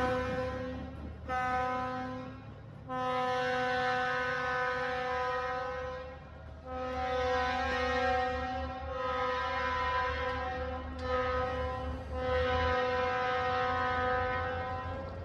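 Horn of Budd RDC-3 rail diesel car #9168 sounding a series of about six long blasts with short breaks between them, over the low rumble of the railcar's diesel engines as it passes.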